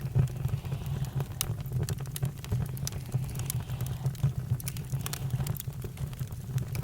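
Campfire crackling: frequent irregular pops and snaps over a steady low rumble of burning.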